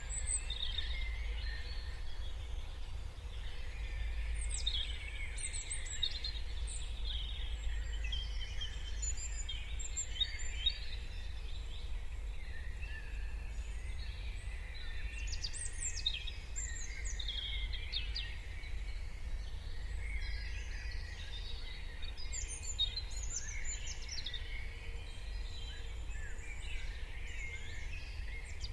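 Morning dawn chorus: several songbirds chirping and singing at once, with quick high chirps and trills overlapping without a break. Beneath them runs a steady low rumble.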